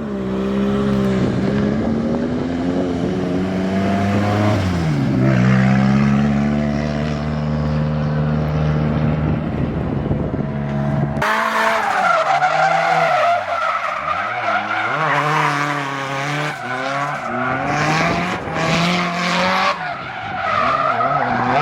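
A car drifting: its engine held at high revs, rising and dipping in pitch. About halfway in, loud tyre squeal takes over and keeps wavering over the engine.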